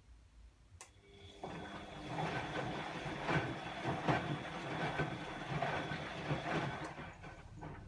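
Bosch WAE24162GB03 washing machine in its rinse: a click, then the drum turns for about six seconds, laundry and water sloshing and tumbling with a faint motor whine, before it stops.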